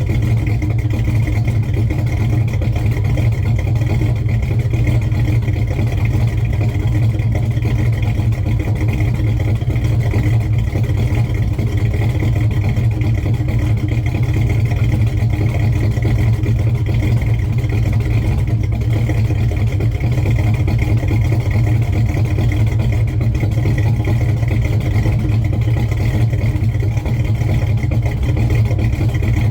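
1970 Chevrolet Chevelle's engine idling steadily while it warms up after a cold start.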